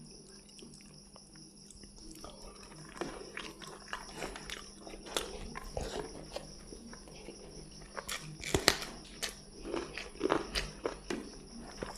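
Person eating rice and fried fish by hand: chewing and lip-smacking clicks, sparse at first and coming thick and loud in the second half.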